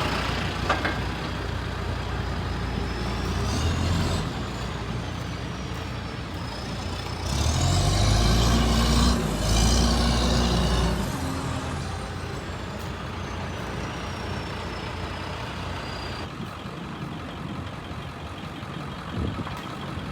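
Diesel truck engine running, revving up louder for about four seconds in the middle. A thin high whine rises and falls over it.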